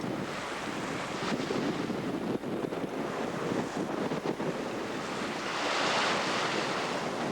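Wind buffeting the microphone over the rush of waves around a sailboat under way at sea, with a louder wash of water near the end.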